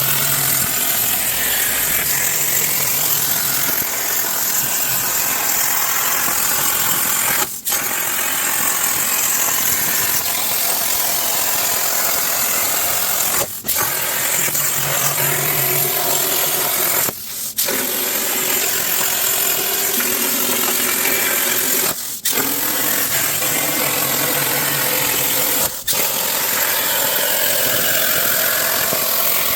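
Plasma cutter on a Langmuir Systems Crossfire CNC table cutting 3/16 in mild steel: a loud, steady rushing hiss with arc buzz. It breaks off briefly five times.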